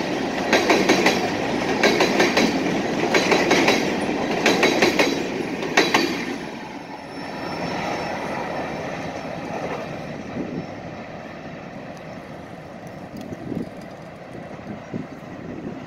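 Freight train's hopper cars rolling past close by, their wheels clicking over the rail joints in groups about once a second. About six seconds in the last car goes by, and the sound drops to a fainter rumble as the train moves away.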